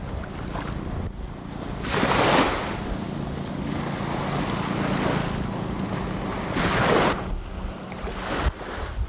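Motorboat under way: a steady engine hum beneath rushing water and wind buffeting the microphone, with two louder whooshes about two seconds in and again near seven seconds.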